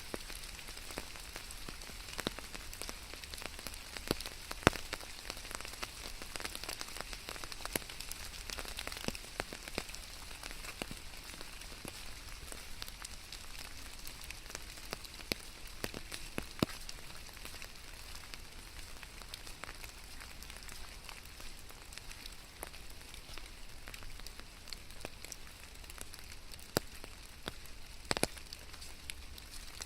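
Steady rain falling on a hard surface, a continuous hiss with many scattered sharp drop impacts; a louder cluster of drop hits comes near the end.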